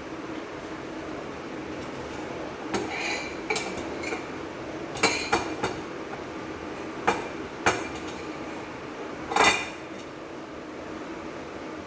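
Cookware and utensils clinking and knocking against each other at the stove, in a scattered run of about eight sharp strikes. The last one, near the end, rings longest and is loudest. A steady low hum runs underneath.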